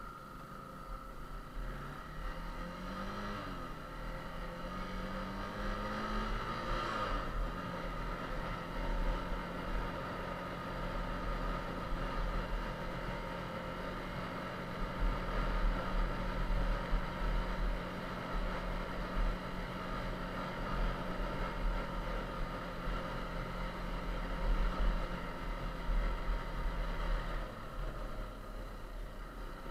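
Yamaha TT-R250's single-cylinder four-stroke engine pulling away, its pitch rising over the first several seconds, then running at a steady speed before easing off near the end, over a constant low rumble.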